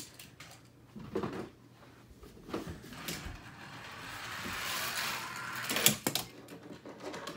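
Hot Wheels toy cars and plastic track being handled, with scattered plastic clicks and knocks. About three and a half seconds in comes a rising rolling rush that ends in a sharp clack, the loudest sound.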